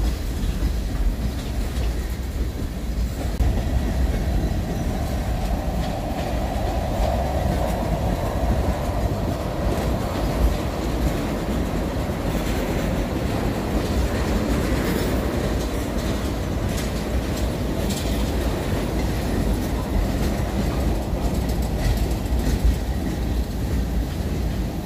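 Freight train cars (boxcars, tank cars and open-sided yellow cars) rolling past close by: a steady rumble of steel wheels on rail with clicking over rail joints. A humming tone rises out of the rumble about three seconds in and fades away by about ten seconds.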